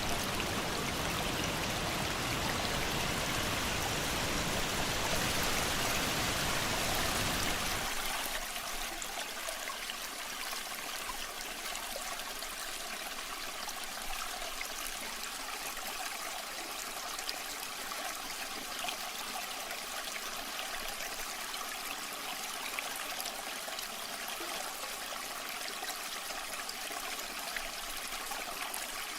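Flowing water of a waterfall or stream, a steady rushing hiss. About eight seconds in it cuts abruptly from a fuller, deeper rush to a thinner, lighter trickling sound.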